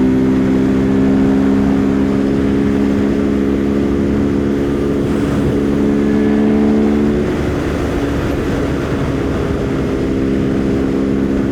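Husqvarna Svartpilen 401's single-cylinder engine running at a steady cruise, with wind rushing over the rider. The engine tone eases a little about seven seconds in.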